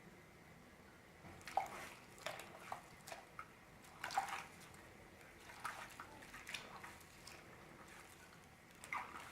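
Chopped alfalfa leaves being rinsed by hand in a bowl of water: a series of short, soft splashes and drips, with a pause before one more near the end.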